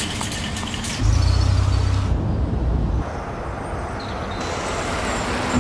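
A car engine rumbling low for about two seconds, over steady traffic noise.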